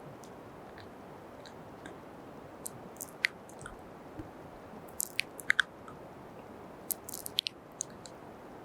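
Close-miked wet mouth sounds and kisses: short lip smacks, a few scattered at first, then bunched in two quick clusters around the middle and near the end, over a steady microphone hiss.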